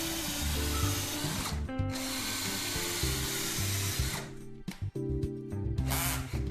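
Power drill boring a hole through a ceiling: it runs for about a second and a half, stops briefly, runs again until about four seconds in, then gives one more short burst near the end. Background music plays throughout.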